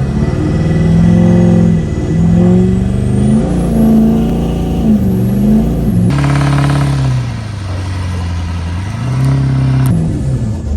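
Diesel pickup truck engine revving up and down again and again under load, its pitch rising and falling several times. The sound breaks off and changes abruptly about six seconds in.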